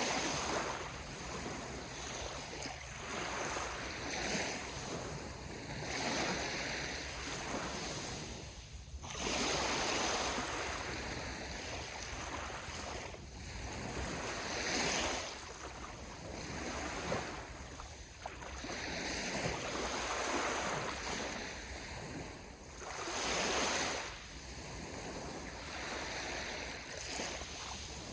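Sea waves breaking on the shore, the surf swelling and washing back with a new surge every few seconds, over a steady low rumble.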